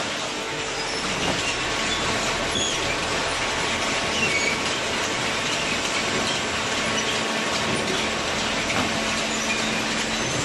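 Automatic horizontal hydraulic carton baler running, a steady mechanical noise with faint squeaks and rattles over it.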